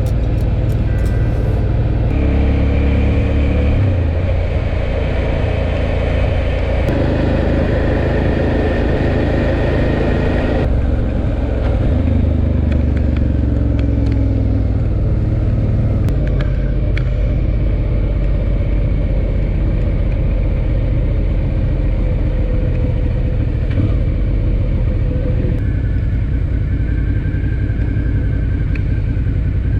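Motorcycle engine running at road speed with steady wind noise; the engine note steps in pitch a few times in the first dozen seconds.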